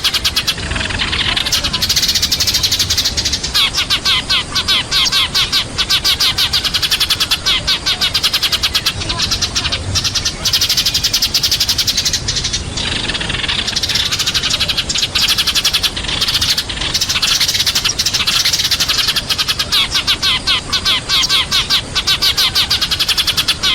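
Sparrows chirping, many rapid overlapping chirps without a break: a sparrow flock-call recording of the kind played as a lure to bring sparrows in.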